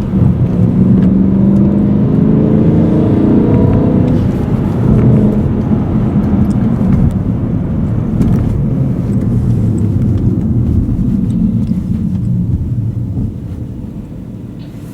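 BMW M3 E92's 4.0-litre V8 heard from inside the cabin, pulling with its note climbing over the first few seconds, then running more evenly and dropping in loudness near the end.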